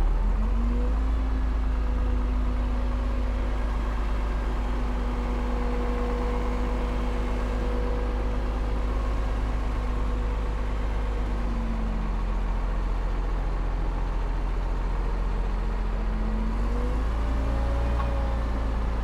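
Heavy diesel engine of earthmoving equipment running at steady revs, its note dropping about eleven seconds in and picking up again about five seconds later.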